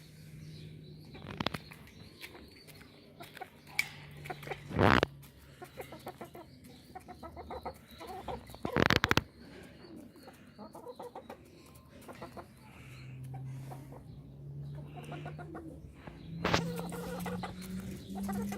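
Chickens clucking in a poultry yard, with a few sharp, loud knocks or rustles in between.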